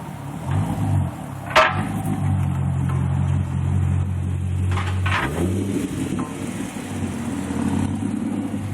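Chevrolet Corvette Z06's 7.0-litre LS7 V8 idling through a Borla cat-back exhaust with dual 3-inch pipes and an X-pipe: a steady low rumble, with two short throttle blips that rise and fall in pitch, about half a second in and about five seconds in. A sharp click about a second and a half in is the loudest moment.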